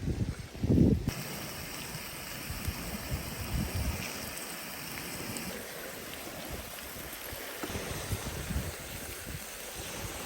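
Steak sizzling in a pan over a wood fire, a steady hiss with small crackles that sets in about a second in. Wind buffets the microphone, hardest in the first second.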